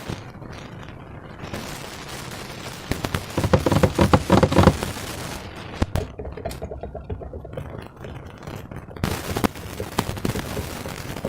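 Slime being squished and worked by hand, giving a dense crackling of small pops and squelches. The crackling is loudest for a couple of seconds near the middle and picks up again near the end.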